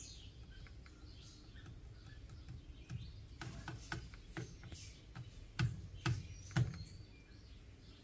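Faint, scattered high bird chirps, with several short soft clicks in the second half, the last three about half a second apart.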